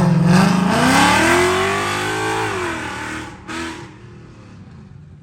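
Car engine accelerating hard, its pitch rising, then falling and fading as the car drives away; a short second burst of sound near the end.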